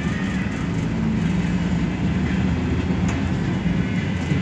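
Steady engine and road noise inside a metropolitan express bus under way, a low drone with a faint rattle.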